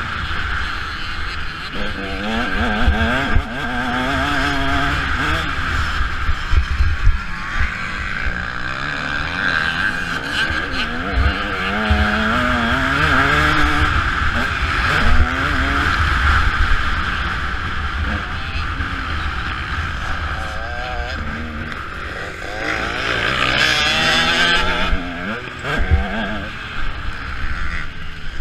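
Motocross bike engine revving up and backing off again and again as it is ridden around the track, its pitch climbing and dropping every few seconds. A short loud rush of noise comes near the end.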